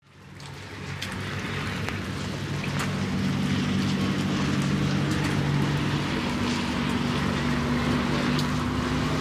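Rain falling onto puddles and wet ground, a steady hiss with scattered drop ticks, over a steady low hum. It fades in over the first two seconds or so.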